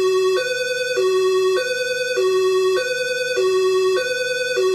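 European two-tone police siren sound effect, alternating steadily between a low and a high note about every half second. It is heard close-up and unprocessed, with no added distance.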